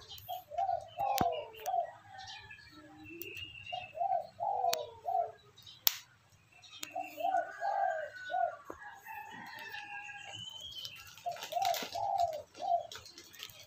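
A bird cooing in repeated phrases of four or five short, quick coos, four phrases a few seconds apart, with a few sharp clicks between them.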